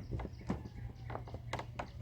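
Irregular clicks and knocks of hand tools and metal parts being handled while working in a pickup's engine bay, several a second and uneven, over a steady low hum.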